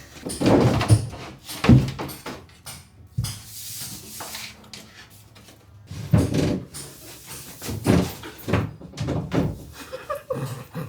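A sheet of insulation is pushed and worked into a wooden wall frame. It makes irregular scraping and rubbing, with a few knocks against the wood.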